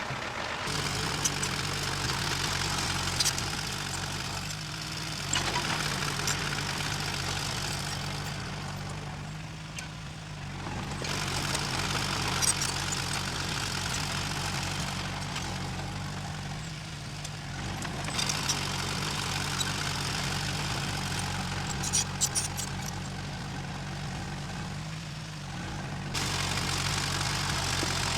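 Diesel engine of heavy earth-moving machinery running steadily, with higher-pitched noise that swells and fades every few seconds and a few sharp clanks.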